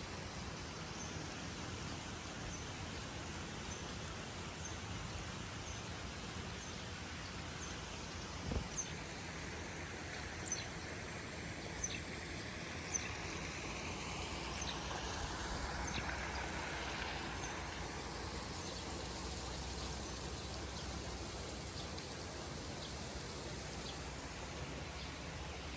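Steady outdoor nature ambience of rushing water, with short high chirps repeating about once a second through the first half. There are a few sharp clicks near the middle, and a broad swell of rushing noise in the second half.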